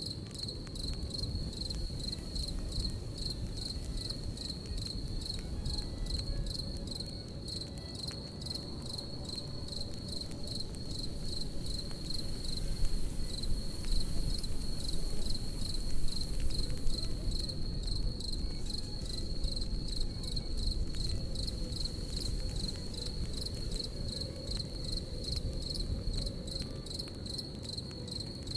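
Crickets chirping in fast, even pulses at one high pitch, over the low steady noise and scattered crackles of a campfire. The fire is a little louder about halfway through.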